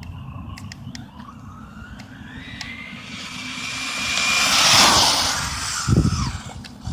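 Electric RC stadium truck on a 3S LiPo accelerating on pavement and passing close by: the motor whine climbs in pitch with rising tyre hiss, is loudest about five seconds in, then drops away. A few low thumps follow near the end.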